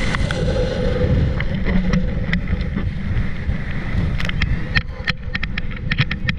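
Wind rushing over the microphone and water rushing under a speedboat-towed banana boat, with a steady motorboat engine hum beneath; a run of sharp clicks sets in about four seconds in.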